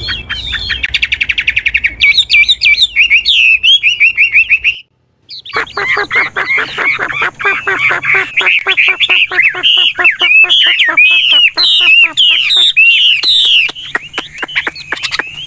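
Chinese hwamei singing a fast, varied song of rapidly repeated whistled notes, opening with a quick trill. It breaks off briefly about five seconds in, then goes straight on.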